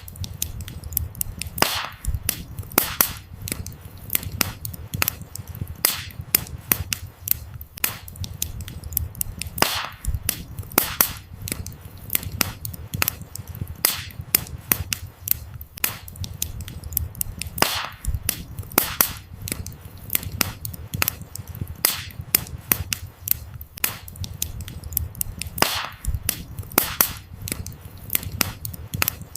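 Wood fire burning: firewood crackling and popping with many irregular sharp snaps, over a steady low rumble of the flames.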